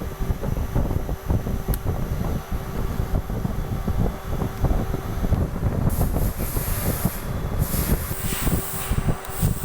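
Doosan CNC machine running with a steady hum and a rumbling, uneven low noise; from about six seconds in a hissing spray joins it.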